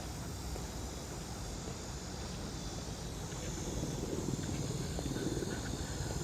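Outdoor ambience: a steady low rumble of distant engine noise that swells a little about four seconds in, with a faint steady buzz of insects higher up.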